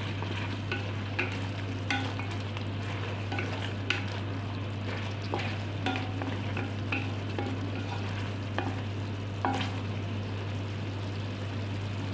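Chicken sizzling in a pan while being stirred, the utensil clicking and scraping against the pan every half second to a second. A steady low hum runs underneath.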